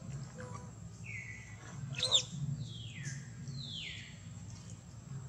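Birds calling: a short whistle dropping in pitch about a second in, a couple of sharp high chirps at about two seconds, then two longer whistles sliding down in pitch. A low hum runs underneath.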